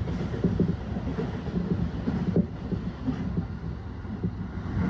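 Inside a moving electric commuter train: the steady rumble of wheels on the rails and the running gear at speed.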